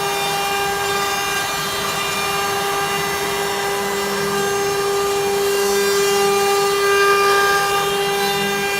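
CNC router spindle running with a steady high whine while carving wood.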